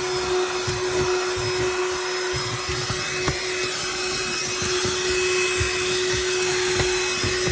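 Cordless handheld vacuum running steadily, its motor giving a constant whine over an airy hiss, with irregular low knocks as the nozzle works the surface. It is struggling to pick up debris, which the user puts down to weak suction.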